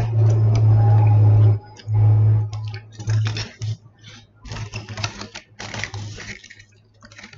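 Aluminium foil wrapper of a burrito crinkling and crackling as it is handled and spread out, in quick irregular clicks close to the microphone. A steady low hum runs through the first second and a half and returns in short bits.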